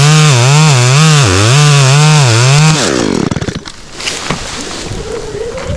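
Chainsaw running at high revs, its pitch dipping and rising about twice a second. It is shut off a little under three seconds in and spins down, and faint knocks follow.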